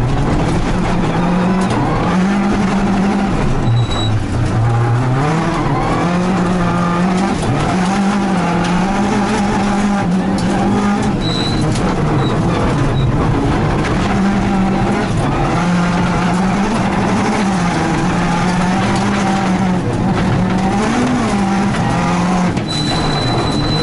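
Rally car engine heard from inside the cabin at full stage pace, revs climbing and dropping back again and again through gear changes, over gravel road and tyre noise. A few short high beeps sound along the way.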